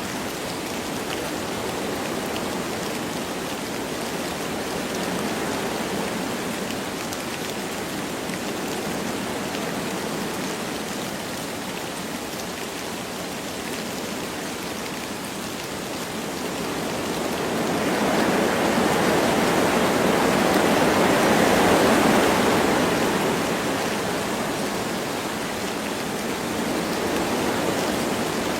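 Wind blowing through forest trees with light rain falling: a steady rushing hiss that swells into a louder gust about two-thirds of the way through, then eases back.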